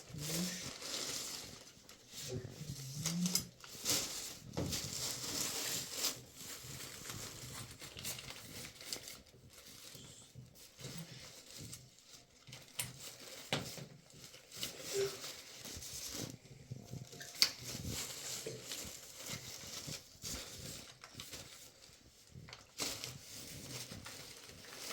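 Irregular rustling and crinkling with scattered light clicks and knocks, like plastic and fittings being handled during the water-heater plumbing work.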